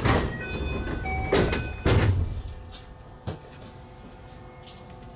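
221 series electric train standing at a station: three short, loud rushing bursts in the first two seconds, a single knock just after three seconds, and a few brief high beeping tones, then a steady low hum.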